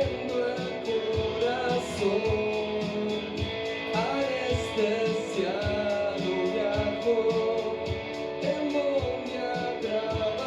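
Live indie rock band playing: a sung melody over electric guitars, bass and a steady drumbeat with cymbal ticks, heard as room sound from the audience.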